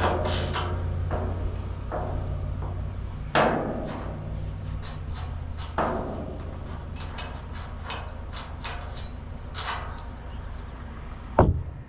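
Hand-tool work on metal farm-equipment parts: a few separate metallic knocks and a run of quick short clicks like a ratchet wrench turning, with a sharp knock near the end, over a steady low hum.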